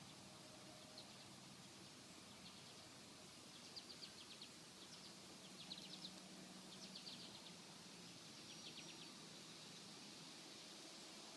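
Faint bird chirps: several short, rapid trains of high ticking notes, over a steady hiss.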